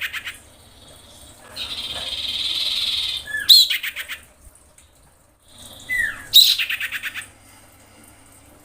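A female common iora calling: a long buzzy churr followed by a quick run of sharp, stuttering notes with a falling slur, given twice. This is a female in breeding condition calling to a male.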